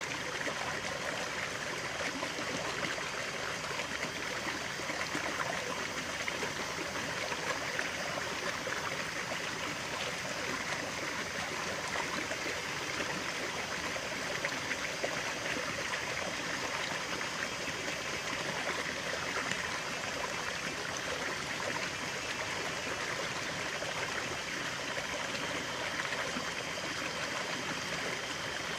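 Stream water running and trickling, a steady rushing with small gurgles.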